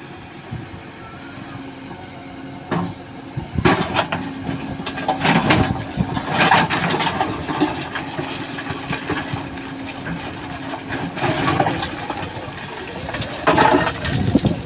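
Loads of stones crashing and rattling into a metal tractor trolley in several loud bursts, with a heavy diesel engine running steadily underneath.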